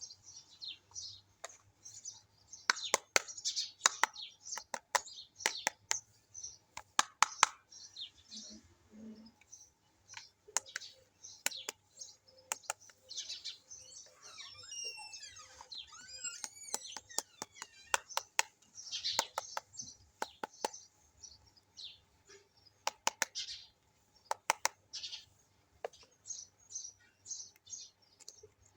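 Small plastic toy kitchen pieces and their packaging being handled: sharp plastic clicks and taps mixed with crinkling. There is a run of high squeaky glides around the middle.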